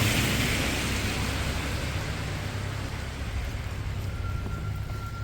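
Tyre hiss of a vehicle passing on a wet street, loudest at the start and slowly fading away. A faint thin tone comes in near the end.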